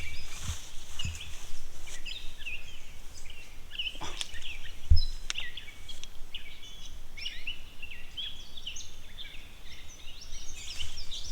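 Several birds singing and calling, many short chirps and slurred notes overlapping, over a low rumble, with a thump about five seconds in.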